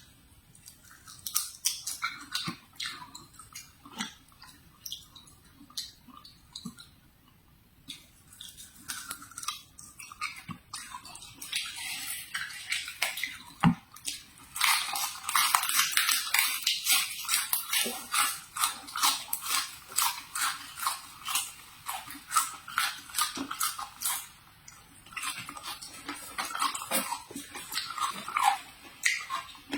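Close-up crunching and chewing of crisp autumn pear, many sharp crackling crunches. They are sparse at first, come thick and fast from about halfway, and thin out near the end.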